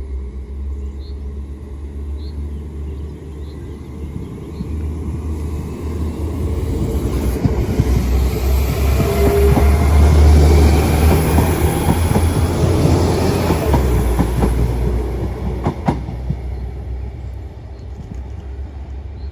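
Northern Ireland Railways diesel multiple unit passing close: a steady low diesel hum with wheels clattering over the rail joints. It builds to its loudest about halfway through, then fades away.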